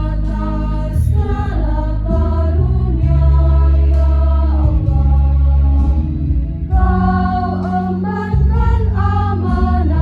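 Choir singing in harmony, with sustained notes that move every second or so over steady low bass notes.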